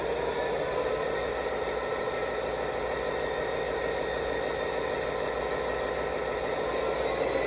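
A train in motion: a steady mechanical noise with several faint whining tones, which rise slightly near the end.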